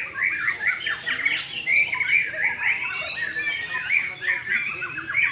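White-rumped shamas singing at once, a dense unbroken stream of quick whistles and chattering notes.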